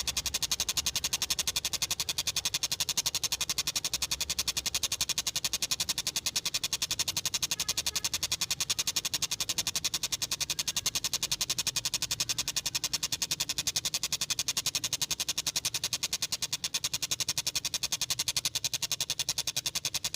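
Tengkek buto kingfisher calling a long, very rapid and even rattle of sharp high notes that does not break, the train-like call the bird is kept for.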